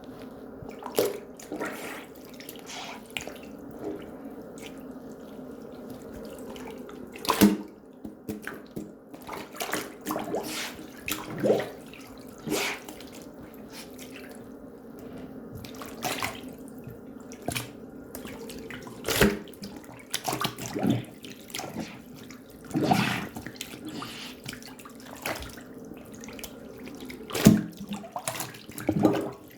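Water at a sink: a steady low rush with irregular splashes and handling noises, several of them sharp and loud.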